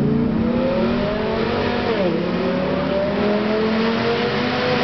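Cars racing at full throttle, a Camaro Z28 against a Dodge Ram SRT-10 'Viper truck' with its V10. The engine note climbs steadily, drops once about two seconds in at a gear change, then climbs again.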